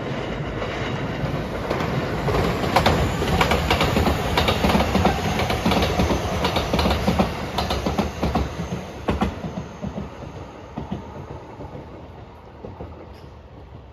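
Rapid Marine Liner electric train passing close by, wheels clicking over rail joints. It is loudest in the middle, then fades away as the train leaves.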